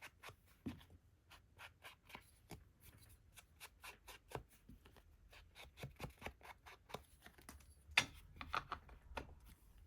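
Ink being dabbed lightly onto the edges of paper and cardboard: a quick, quiet run of small taps and scuffs, about three to four a second, with one sharper tap about eight seconds in.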